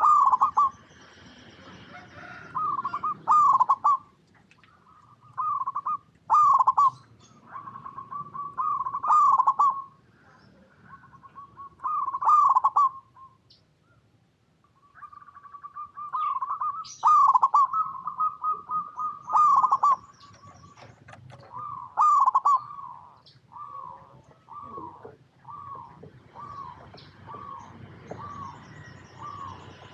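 Zebra dove (perkutut) cooing: short phrases of rapid, trilling coo notes repeated every two to three seconds. Near the end they give way to a run of single coos, about one a second.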